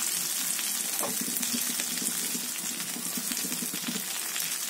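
Brinjal slices frying in mustard oil in a kadai: a steady sizzle, with a faint knock about a second in.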